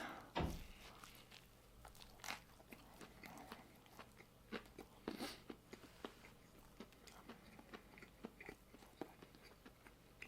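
A person chewing a crispy fried chicken sandwich close to the microphone: irregular crunches and wet chewing clicks, with a louder bite about half a second in.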